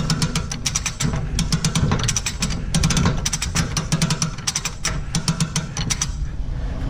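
Cable hoist lifting a load, its ratchet clicking rapidly in short runs with brief pauses over a low running hum. It stops about six seconds in.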